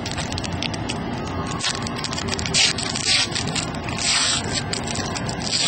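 Wrapper of a pack of football trading cards being torn open, giving several short bursts of crackling over a steady background hiss.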